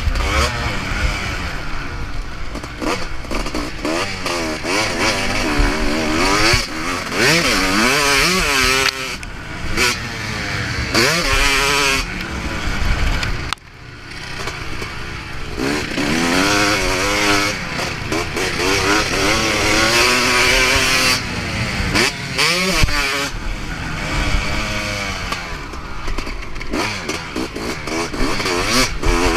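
Motocross bike engine revving hard and falling back over and over as it is ridden around the track, the pitch climbing and dropping with each throttle opening and gear change. The throttle is shut briefly about halfway through before the engine picks up again.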